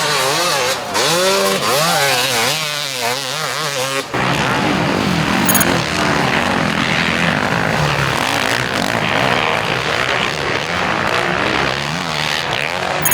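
450cc four-stroke motocross bikes racing, the engine pitch repeatedly rising and falling as riders rev through the throttle. About four seconds in, the sound cuts abruptly to a denser mix of several bikes running at once.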